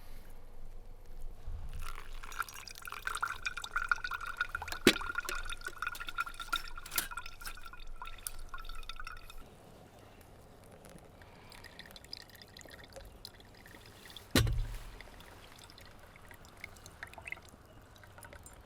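Liquid being poured and dripping, with a faint steady tone and small clicks that stop about nine seconds in; a single sharp knock about fourteen seconds in.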